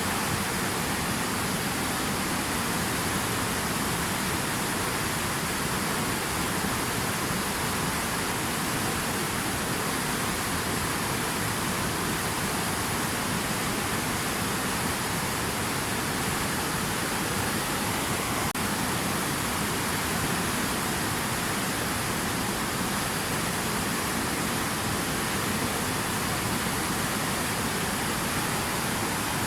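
Steady rushing water: an even, unbroken hiss of falling water.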